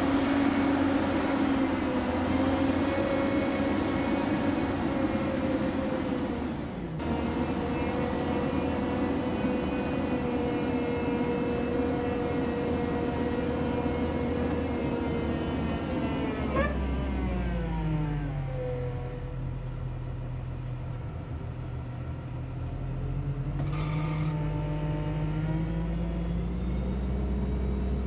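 Diesel engine of heavy equipment running at high revs under work, then dropping to a low idle about sixteen seconds in, and revving partway back up a few seconds before the end.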